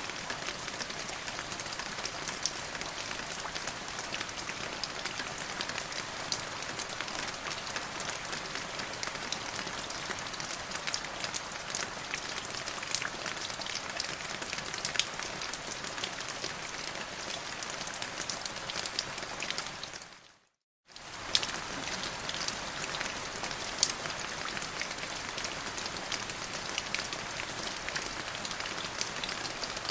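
Steady rain with many individual drops ticking sharply through the hiss. About two-thirds of the way through it fades out to silence for under a second, then comes straight back.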